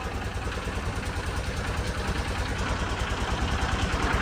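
A motorboat's engine running with a steady, rapid low throb, slowly growing louder.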